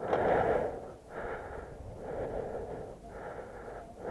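A person breathing hard close to the microphone, a steady series of rough in-and-out breaths about one a second.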